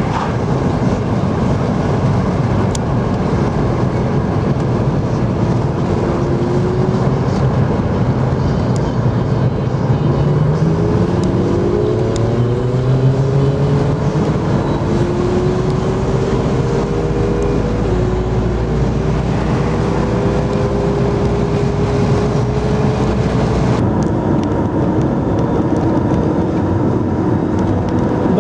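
Motor vehicle engine noise over a steady rush. About ten seconds in, an engine's pitch climbs quickly, then holds fairly steady.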